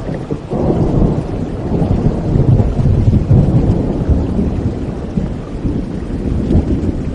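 Rolling thunder rumbling over steady rain, swelling about half a second in and slowly easing off.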